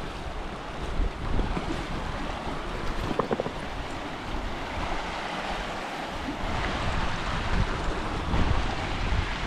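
River water rushing steadily, with wind gusting on the microphone.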